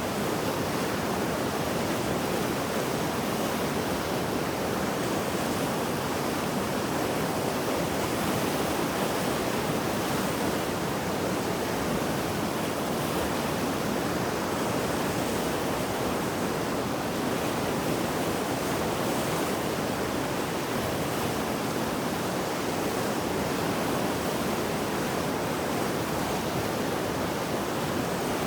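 Mountain river running high and fast after heavy rain, a steady full rush of turbulent water.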